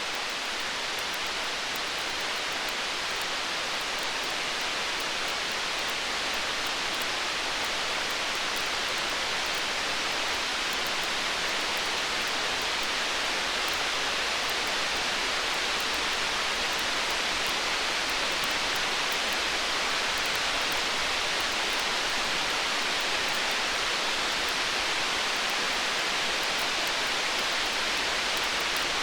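Steady, even hiss of heavy rain in a stormy-night soundscape, with faint fine ticks scattered through it and no thunder.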